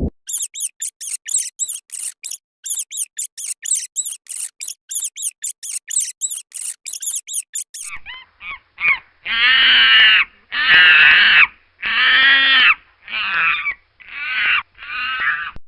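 Animal calls: first a fast run of very high-pitched chirps, about four a second, then, about eight seconds in, a series of six loud, harsh calls of about a second each.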